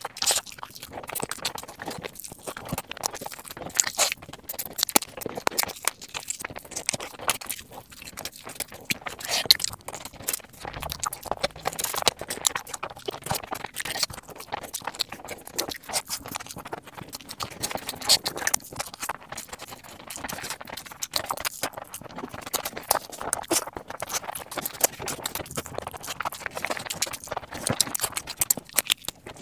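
Close-miked eating sounds: biting and chewing sauce-coated fried chicken, with wet mouth clicks and smacks in an irregular, steady stream.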